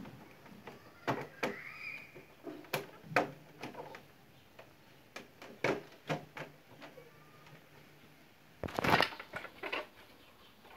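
Irregular clicks and knocks of parts being handled, with a louder scraping rattle about nine seconds in.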